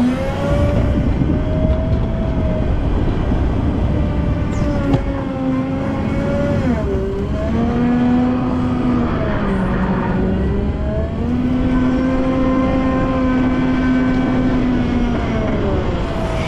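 Volvo L90F wheel loader's diesel engine revving up and down under working load, its pitch dipping twice in the middle, then held high for several seconds before it drops near the end.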